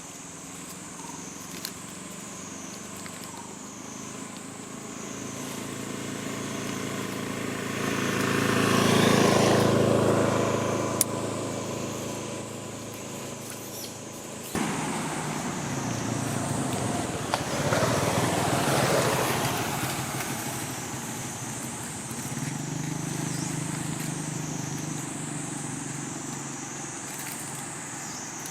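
Motor vehicles passing by one after another, each swelling up and fading away. The loudest passes about nine seconds in, another around eighteen seconds.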